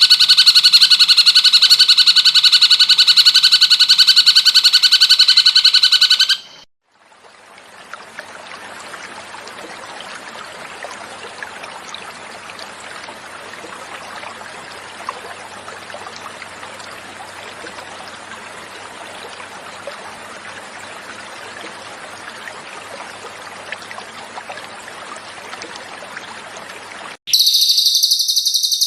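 Cucak cungkok song: a loud, rapid trill on steady pitches, which stops about six seconds in. After a short silence, water flows with a steady rush for about twenty seconds, and the loud trilling song starts again near the end.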